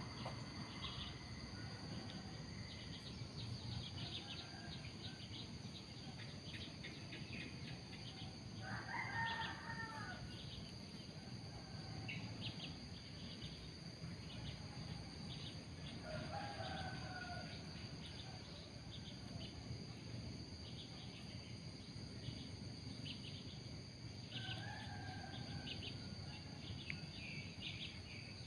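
Faint outdoor ambience: three longer bird calls spaced about eight seconds apart, with scattered short high chirps over a steady high hum.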